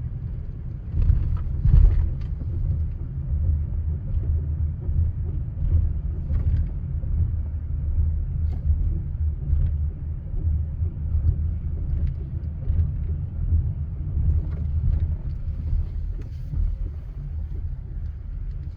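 Honda Odyssey minivan on the move: a steady low rumble with a couple of louder thumps about a second in and scattered light clicks, the noise heard after a rear brake replacement.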